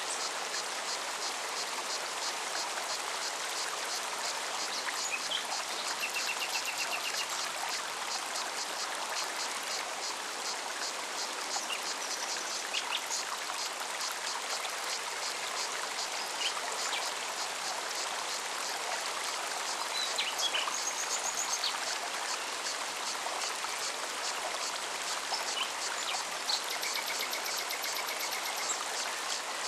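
Forest mountain stream running steadily, with a cicada's rapid, even pulsing song high above the water. Scattered short bird chirps and trills come through, including a brief trill about six seconds in and another near the end.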